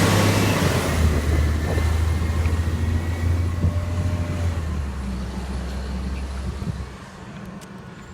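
Diesel garbage truck engine running with a deep low hum and a faint high whine, fading steadily as the truck moves off. It drops away about seven seconds in.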